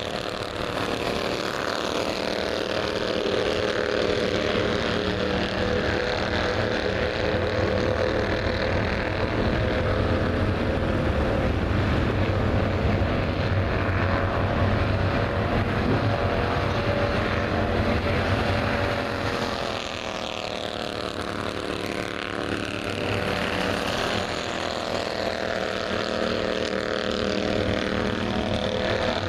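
Bandolero race car engine running at speed. Its pitch sags about two-thirds of the way through, then climbs again, as the car goes through a turn and accelerates out.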